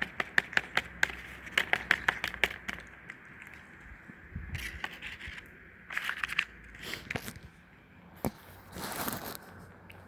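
Quick crackling, crunching clicks for the first few seconds, then scattered bursts of rustling, the loudest and longest about nine seconds in.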